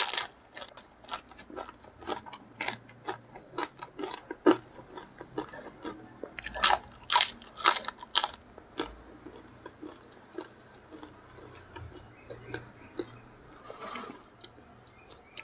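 Close-miked eating of crisp battered fried tempeh: sharp crunching bites and chewing, the loudest crunches bunched about seven to nine seconds in. It then eases to softer, quieter chewing, with a brief squishy sound of fingers in food near the end.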